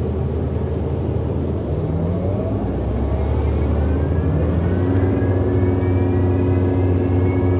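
Orion NG hybrid-electric bus pulling away, heard from inside: a steady low engine drone with a rising electric motor whine that climbs in pitch as the bus gathers speed, the weird motor sound of this bus.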